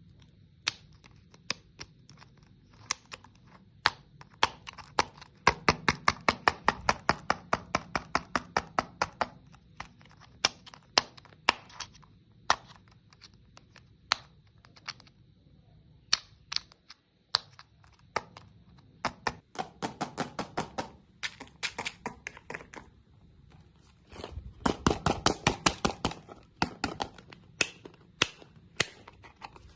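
Hard candy being cracked and crunched close to the microphone: sharp, crisp clicks and cracks, with three runs of quick crunches about five a second.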